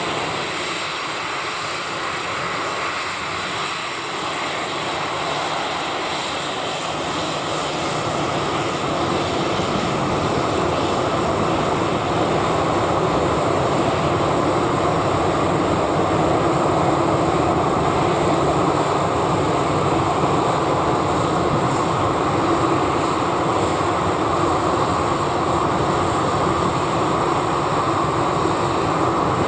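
Jet engines of a Boeing 737-800 (CFM56-7B turbofans) running at high power for takeoff: a dense, steady rushing noise with a high hiss on top. It grows louder about ten seconds in and then holds steady.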